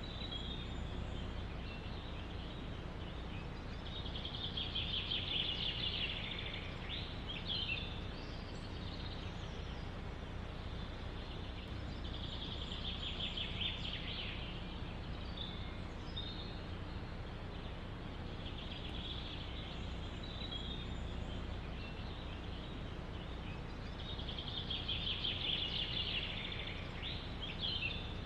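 A songbird repeats a rapid trilling phrase about every seven seconds, four times, each ending in a few quick falling notes. Under it runs a steady hiss of wind in the forest.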